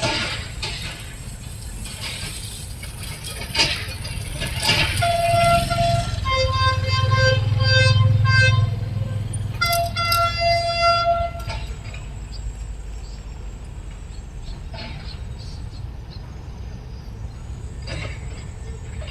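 Diesel freight train passing on the rails, its engine rumble swelling and fading. The locomotive's horn sounds a held blast about five seconds in, then a string of short toots, then another held blast near the eleven-second mark. Sharp clicks come in between.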